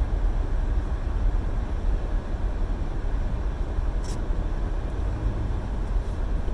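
Steady low rumble of a car heard from inside the cabin, engine and wind noise with no voice. A faint short tick about four seconds in.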